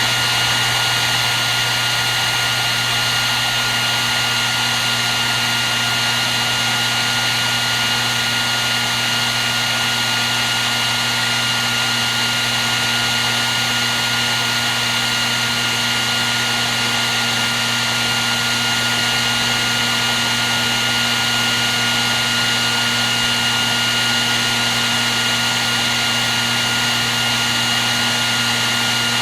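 Hair dryer running steadily: a constant rush of air with a steady high whine from its fan motor and a low hum underneath.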